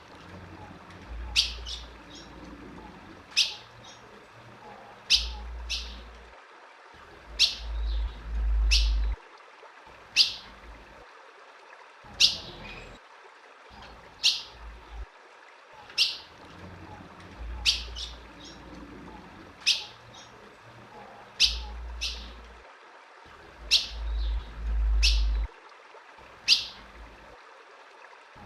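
Female ultramarine grosbeak (azulão) giving short, sharp, high chip calls, singly or in quick pairs, about every one to two seconds. A low rumble comes and goes underneath.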